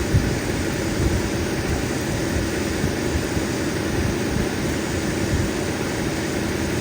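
Lapidary cabbing machine running, with an opal nobby held against its grinding wheel as the stone is ground down. The sound is a steady, loud grinding hum.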